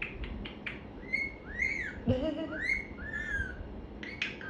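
Pet parrot whistling four short whistles, each rising and falling in pitch, after a few quick clicks at the start.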